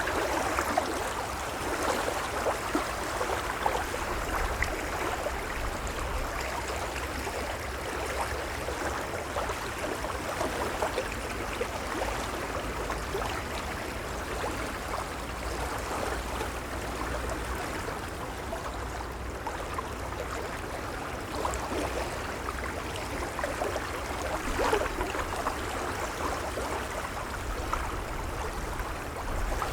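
Gentle small waves washing and lapping steadily against the shore, with a few slight swells in the wash.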